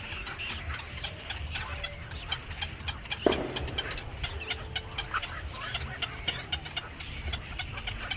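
Many small birds chirping busily in quick, overlapping short calls, with a single sharp knock about three seconds in and a steady low rumble underneath.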